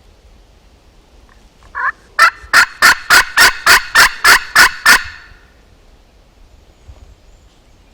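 Turkey yelping: a short note, then a run of about ten loud, evenly spaced yelps lasting about three seconds, roughly three a second.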